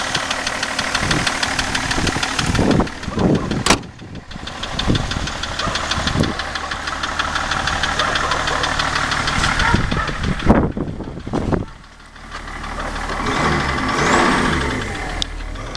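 BMW M57 straight-six diesel running with a rapid, regular knock whose cause the owner cannot find. Several short thumps and knocks partway through, and the sound drops away briefly about three-quarters of the way in.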